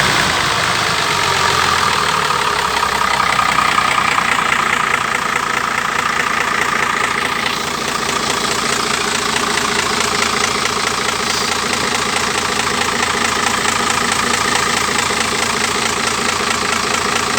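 Isuzu 6HE1 inline-six diesel engine running with a steady, even diesel clatter, easing down over the first several seconds and then holding at idle.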